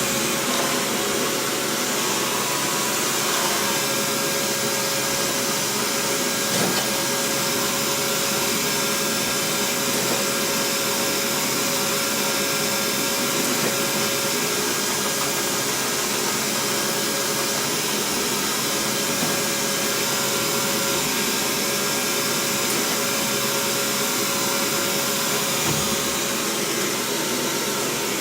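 Xiaomi robot vacuum running, a steady, even whir of its suction fan.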